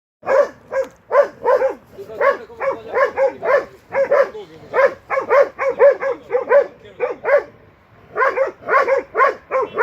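Young hunting dog barking in quick runs of short, fairly high barks, two to four a second, with a couple of brief lulls: baying at a wild boar during boar-pen training.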